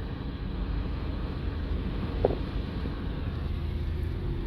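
Car driving along a road, heard from inside the cabin: a steady low rumble of engine and tyre noise, with a brief sharp sound about two seconds in.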